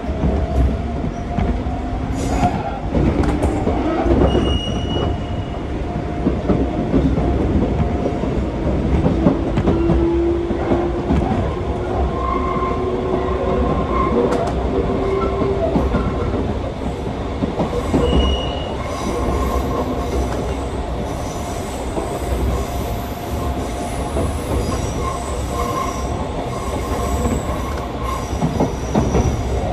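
Gakunan Railway electric train running, heard from inside the car: steady rumble of wheels on rail with clicks from the rail joints and flange squeal. A whine slowly rises in pitch over the first half.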